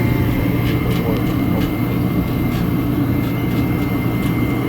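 Space heater running with a steady, even hum and a faint high whine, kept on because the garage is at 15 degrees.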